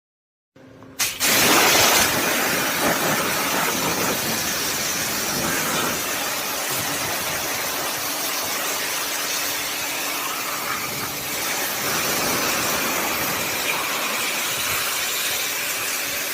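Pressure washer pump running and spraying a water jet onto a split AC indoor unit during a chemical coil wash: a steady hiss with a faint motor hum underneath, starting abruptly about half a second in.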